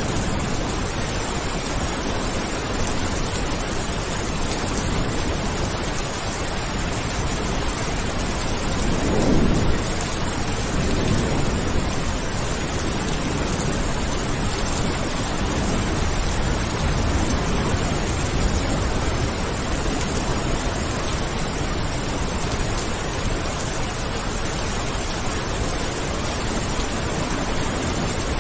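Steady heavy rain hissing, with a low roll of thunder about a third of the way in and fainter rumbles after it.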